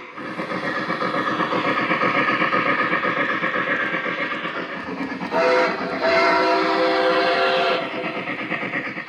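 Lionel O-scale Berkshire model steam locomotive's onboard sound system running, with steady rapid chuffing. About five seconds in, its steam whistle blows for a little over two seconds over the chuffing.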